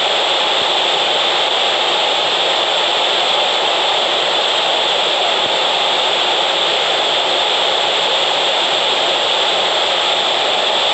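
Waterfall: water crashing steadily onto rock and pool in a loud, unbroken rush.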